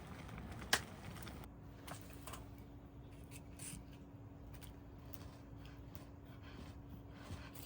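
Quiet tableside eating sounds: light clicks and scrapes of utensils against dishes, with one sharp click under a second in. A faint steady hum comes in about a second and a half in.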